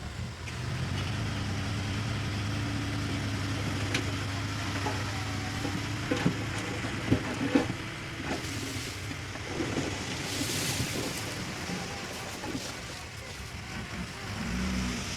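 Heavy diesel construction machinery running steadily, with a few sharp knocks about six to eight seconds in and a short hiss around ten seconds in.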